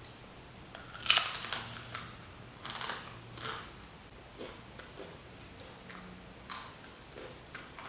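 A person eating close to the microphone: a few short bites and chewing sounds, the loudest about a second in.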